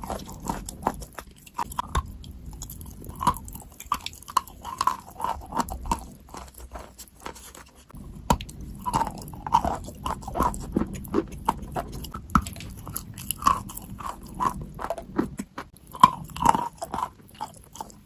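Close-up biting and chewing of something wet and crunchy: irregular crisp crunches, about two a second, with a brief pause about eight seconds in.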